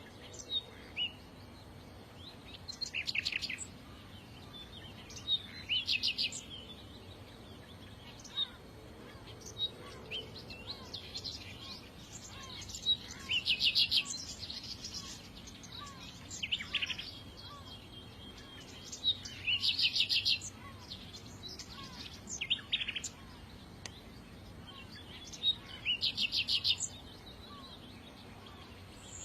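Small songbirds singing: a rapid, buzzy trill of about a second repeats every few seconds, with thin high chirps and short calls in between.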